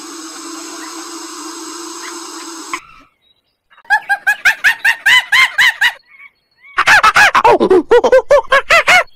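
A steady hum cuts off about three seconds in. Then come two loud runs of short, rapidly repeated calls from domestic fowl, about five calls a second, each run lasting about two seconds.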